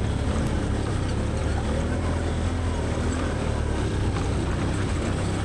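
Can-Am Outlander 850 XT ATV's V-twin engine running steadily under way on a trail.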